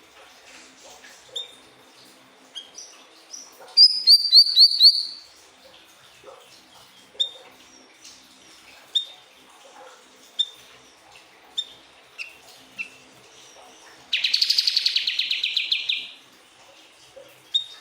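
Siri-siri bird singing: a quick run of high, falling whistled notes about four seconds in, then scattered single short chips, and a fast, rattling trill of about two seconds near the end.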